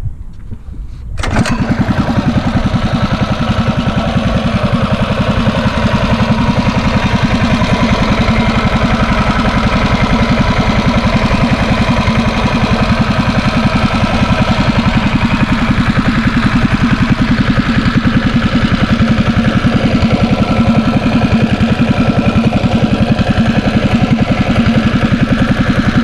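Mini bike's small engine starting: it catches about a second in and then keeps running at a steady idle.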